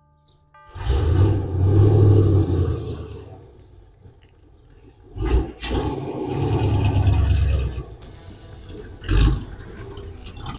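Vehicle engine revving loudly in two spells of a few seconds each, with two short sharp bursts between and after them.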